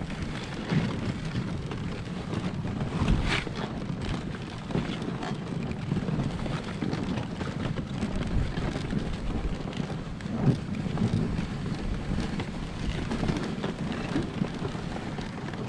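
A dog sled with riders being pulled along a trail by a team of sled dogs: a steady rumble and rattle from the sled with wind buffeting the microphone, and a sharper knock about three seconds in and again near ten seconds.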